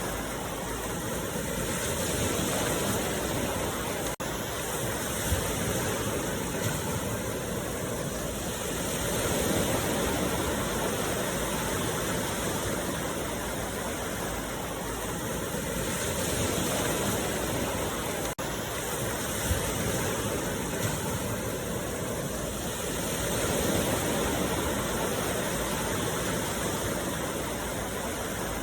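Ocean surf breaking on a beach: a continuous rushing wash of waves that swells and eases every several seconds. The sound drops out for an instant twice.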